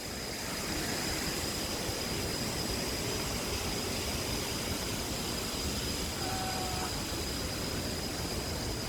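Steady rushing of a large waterfall, an even noise that does not change, with a thin high whine running through it.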